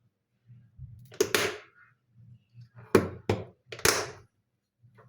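Household clatter: about five sharp knocks and thuds, two close together about a second in, two more near three seconds, and a last one near four seconds.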